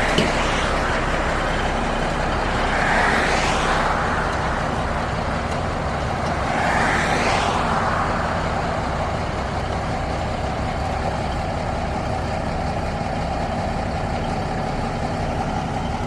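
Heavy diesel truck engine running steadily, with two louder rushes of noise swelling and fading about three and seven seconds in.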